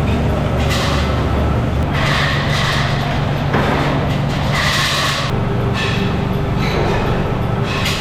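Factory machinery running with a steady low hum, with repeated bursts of hissing, grinding noise every second or two.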